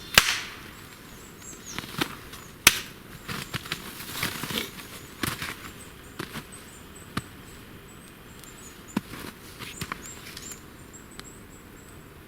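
Small campfire of birch bark and wet, ice-coated twigs crackling, with sharp irregular pops and snaps; the wood is soaked through and catching only with difficulty. A faint series of very high, thin squeaks runs through the middle.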